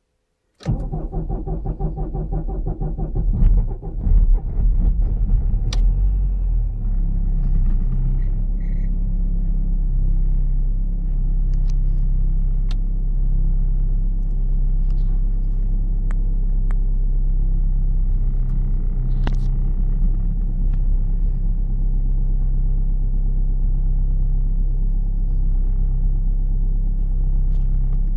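VW Passat B5 1.9 TDI four-cylinder turbodiesel cold-starting in frost: the starter cranks for about three seconds, and the engine catches with a few loud bursts before settling into a steady idle. This is a hard start at −7 °C.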